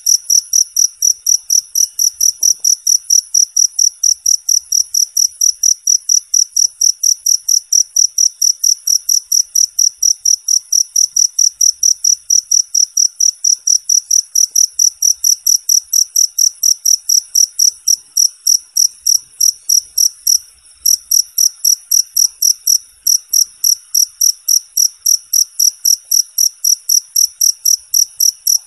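Cricket chirping: a high, clean chirp repeated evenly at about four a second, with one short break about twenty seconds in.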